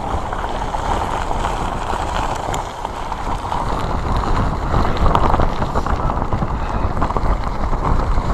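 Typhoon wind buffeting a phone's microphone: a steady noisy rush with low rumbling gusts that grows stronger in the second half.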